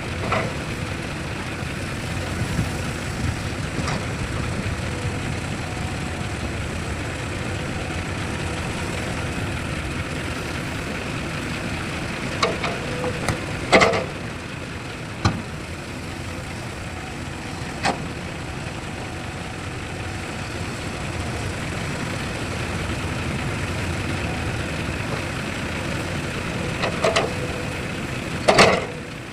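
Heavy machinery diesel engine running steadily, with a few sharp metallic knocks, the loudest about 14 s in and just before the end.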